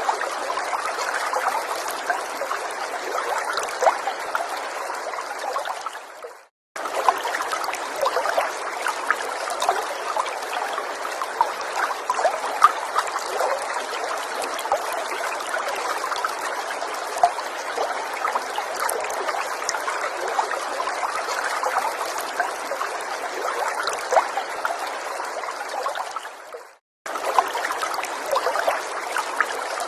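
Small forest stream trickling and babbling, with many little splashes and droplets over a steady flow. The sound fades and cuts out for about half a second twice, once about six seconds in and again near the end, then resumes.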